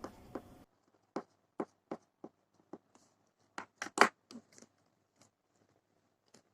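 About a dozen short, sharp clicks and taps at irregular intervals, the loudest about four seconds in.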